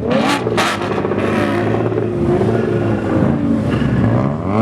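Car engines running and revving, their pitch rising and falling, with short noisy bursts of throttle near the start.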